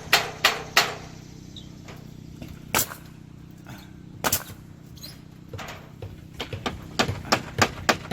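Sharp knocks or clicks at irregular intervals, coming faster near the end, over a faint steady low hum.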